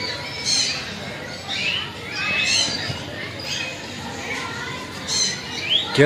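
Aviary birds calling: a string of short, high chirps and squawks, some sliding up or down in pitch, about one a second.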